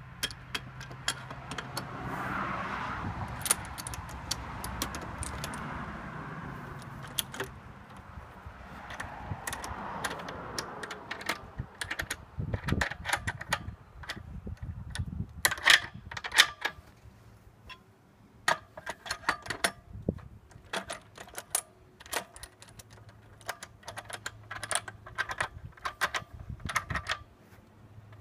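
Metal parts of a manual butt welding machine for PE pipes being handled, with many sharp metallic clicks and clinks in irregular runs. In the first half a steady rushing noise runs for several seconds, twice.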